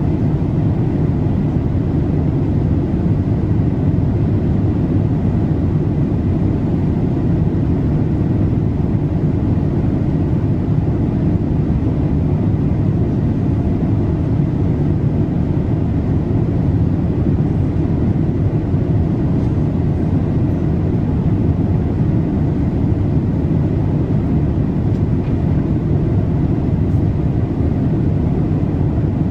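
Steady cabin noise of a Boeing 787-8 airliner in flight, a low even rush of engine and airflow with a faint steady high tone.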